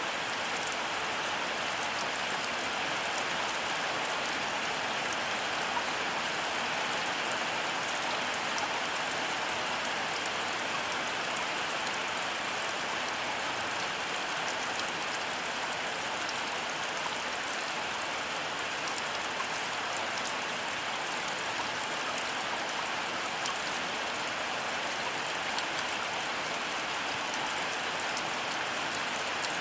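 Heavy rain falling steadily: a dense, even hiss with scattered closer drop ticks.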